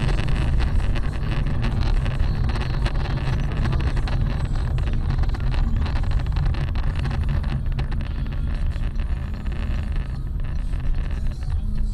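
A car on the move: steady low rumble of engine and road noise, with some wind noise.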